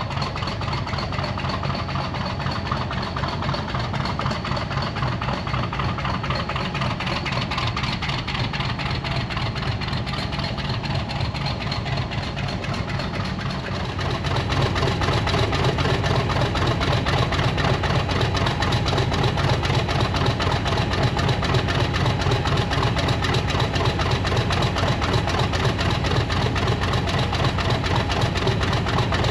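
Locomotive engine idling with a steady low running sound, which grows louder about halfway through.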